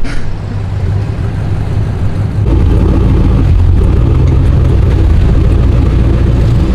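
Truck engine and exhaust running with a low rumble, growing louder about two and a half seconds in as it pulls away.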